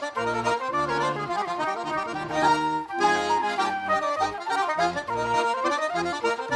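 Accordion playing a lively traditional Irish tune, with bass and chord notes under the melody.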